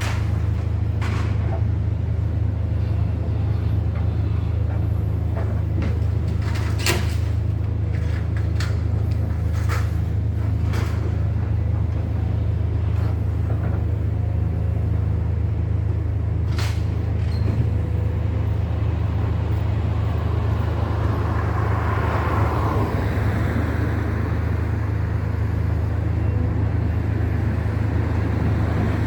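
Steady low rumble of a heavy diesel engine running, with a handful of sharp knocks and clanks in the first half and a swell of louder noise about two-thirds through.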